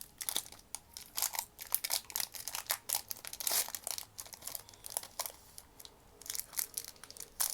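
Foil trading-card booster pack wrapper crinkling and rustling in quick, irregular crackles as the pack is handled and opened.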